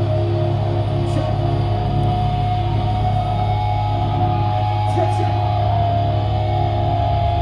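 Live heavy band playing a droning passage: sustained, ringing electric guitar notes over a steady low bass note, with hardly any drum hits.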